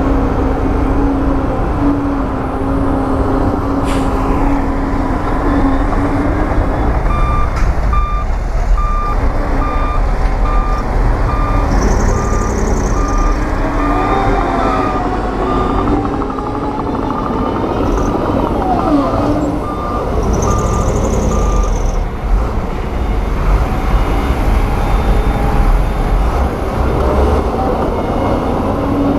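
Heavy diesel earthmoving machinery running, with a reversing alarm beeping at a steady, even rate from about seven seconds in for some fifteen seconds while a machine backs up.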